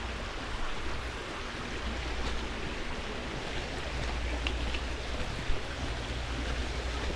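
Creek water flowing, a steady rushing with a constant low rumble beneath it.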